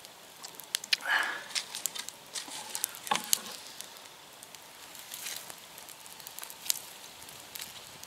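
Small wood campfire crackling, with irregular sharp pops and two louder brief noises about one and three seconds in.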